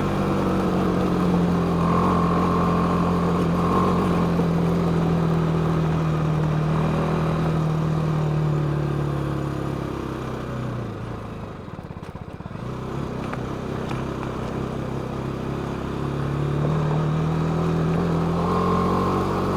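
BMW G 310 GS single-cylinder motorcycle engine running under way at steady revs. About halfway through the revs drop and the engine goes quiet for a couple of seconds as the throttle is eased off. It then picks back up, the pitch rising again near the end.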